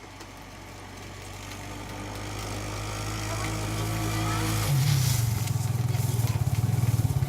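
Honda 420 four-wheeler's single-cylinder engine approaching and growing steadily louder, then about four and a half seconds in running close by with a quick, even pulsing beat.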